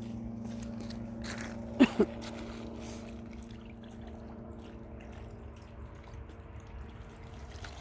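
Water trickling and splashing as hands are washed, over a steady low hum. Two short, sharp sounds come close together about two seconds in.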